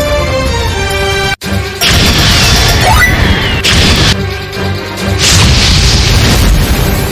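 Online slot game soundtrack music and effects: a melody that cuts out abruptly about a second and a half in, then gives way to loud noisy effect sounds with sliding tones and booms, in two long stretches.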